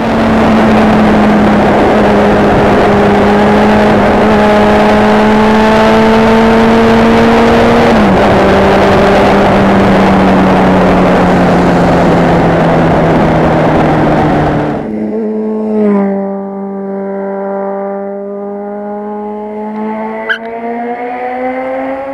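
Inline-four sport motorcycle engine running at a steady pitch under heavy wind rush on the microphone, with a brief dip in pitch about eight seconds in. About fifteen seconds in the wind rush drops away and the engine note falls, then climbs steadily as the bike accelerates.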